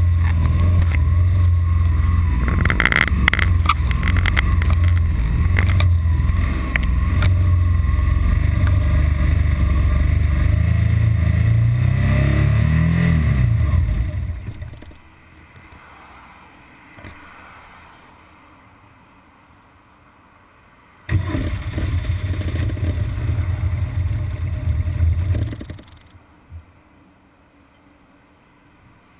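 BMW R1200GS Adventure's boxer-twin engine idling, with a brief rise and fall in engine note about twelve seconds in, then dying away about fourteen seconds in as the bike stalls. After several seconds of quiet the engine note returns abruptly, runs about five seconds, and cuts out again. This is the bike's intermittent stalling and rough-idle fault, which shows up in traffic after a long fast ride.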